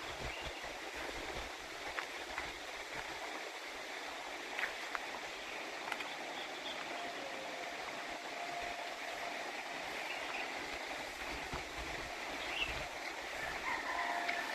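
Steady rush of flowing water, with a few short bird chirps near the end.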